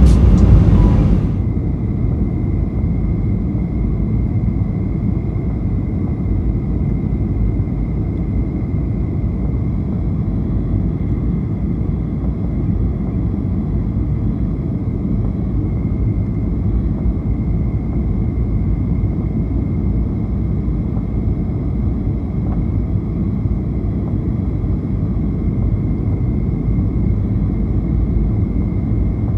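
Cabin noise at the rear of a Boeing 737-800 in flight: a steady low rumble from its CFM56-7B engines and airflow, with a thin steady whine above it.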